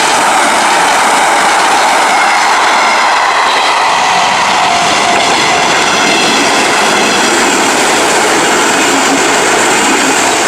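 Sunzu Line electric train passing close by over a level crossing: a loud, steady rush of wheels on rail and running gear.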